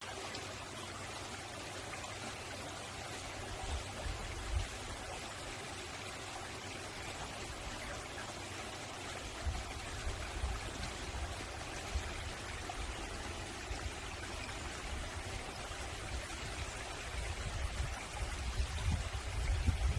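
Mountain valley stream flowing over rocks, a steady rush of water, with a low rumble that swells now and then.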